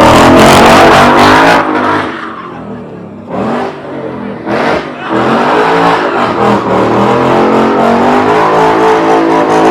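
Car engine revving hard: a loud run of revs, a drop back with two short blips of the throttle, then held high revs again from about halfway, the pitch rising near the end.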